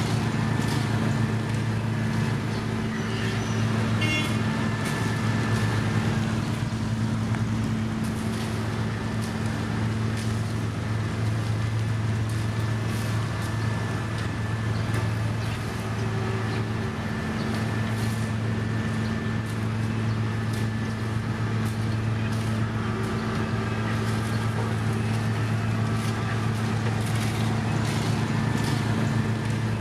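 Heavy diesel engine of road-paving machinery running steadily at a constant speed, with a deep, even hum.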